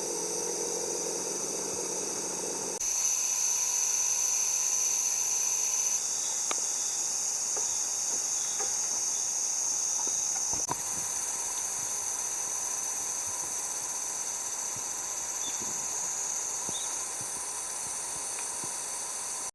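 Insects chirring in a steady high drone, which jumps louder about three seconds in and shifts again at about six and eleven seconds, with a few faint ticks.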